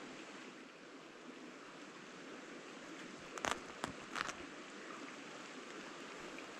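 Steady, faint running water of a small stream, with a few brief clicks and rustles about halfway through.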